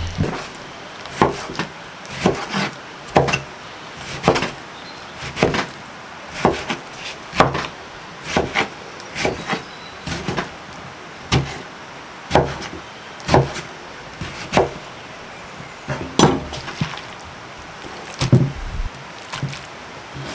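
Repeated chopping blows on wood, about one sharp strike a second, some in quick pairs.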